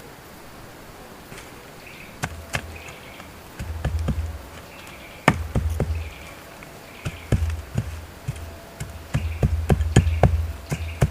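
A series of sharp knocks with dull thuds, about a dozen at irregular intervals, coming in clusters after the first two seconds, like something being struck or chopped by hand.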